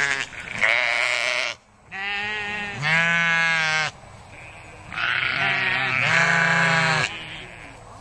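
Sheep bleating repeatedly: about five long calls in close succession, with a pause of about a second midway.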